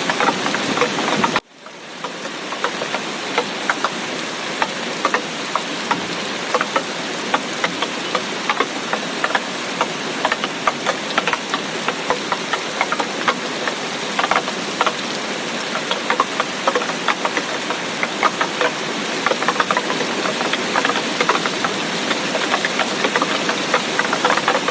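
Heavy rain falling, a steady hiss thick with the ticks of close drops striking. About a second and a half in, the sound cuts out for a moment and fades back in.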